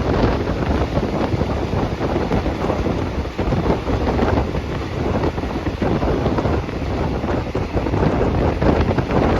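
Passenger train running along the track: a steady low rumble with a rush of wind noise over it.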